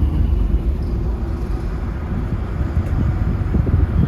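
Car on the move: a steady low road and engine rumble, with a few short knocks near the end.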